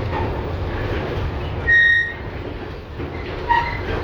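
LVS-2009 tram in motion, heard from inside: a steady rolling rumble from the running gear. About two seconds in there is a short, loud, high tone, and near the end a briefer one.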